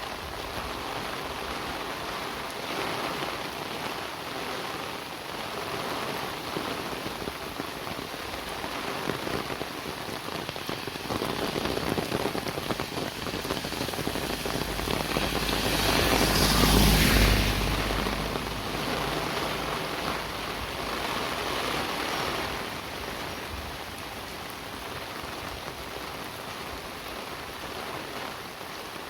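Steady rain falling. About halfway through, a vehicle passes: it grows louder, peaks, then fades back under the rain.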